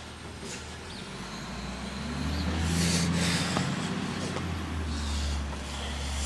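Garbage truck engine revving up under load while collecting yard waste, with short sharp hisses of air.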